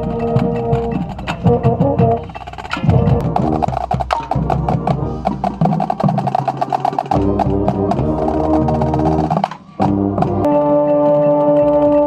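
Marching band playing, with wind chords held over percussion strokes. The music breaks off briefly and a new held chord starts near the end.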